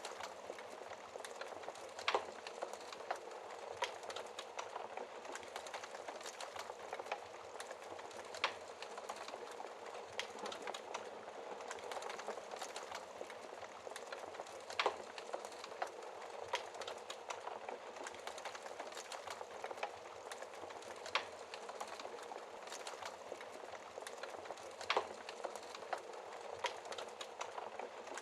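Wood fire burning in a fireplace: a steady fine crackle with sharper, louder pops every few seconds.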